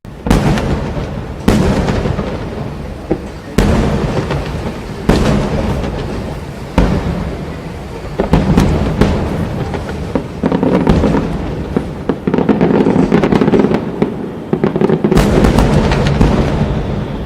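Aerial firework shells bursting one after another, each a sharp boom with a rumbling tail, about every one to two seconds, thickening into dense crackling through the middle and later part, with another heavy burst near the end.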